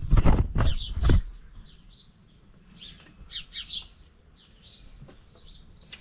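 A few loud clattering knocks in the first second, then small birds chirping in short, high calls scattered through the rest.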